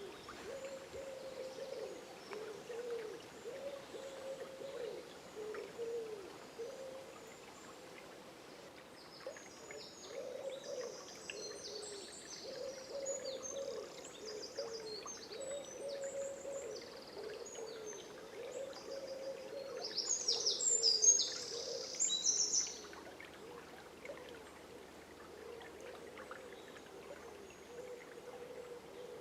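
A dawn chorus over a faint river: low hooting bird calls repeat on and off all through, while a songbird sings quick high twittering phrases from about nine seconds in. The songbird is loudest a little after twenty seconds, then stops.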